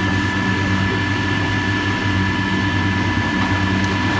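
Heavy diesel construction machinery running steadily, with a constant low engine hum and a steady higher whine.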